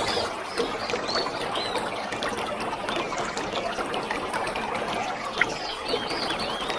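Waterfall rushing and splashing steadily, with birds chirping short, repeated arching calls during the first couple of seconds and again near the end.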